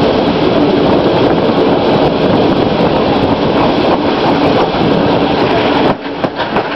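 Running noise of a moving train heard from on board: steady wheel and carriage rumble with scattered clicks, dipping briefly about six seconds in.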